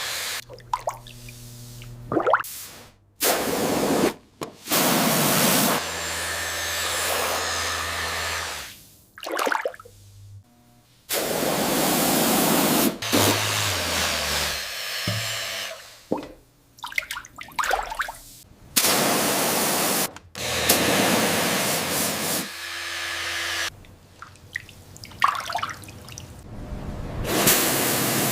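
Repeated bursts of hissing spray, each lasting a second to a few seconds, with short breaks between them.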